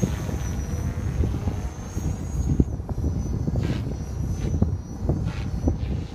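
Electric RC helicopter, an ALZRC Devil 480 on a 6S battery, flying with a thin, steady high motor and rotor whine that dips slightly about two and a half seconds in. Heavy wind buffets the microphone throughout.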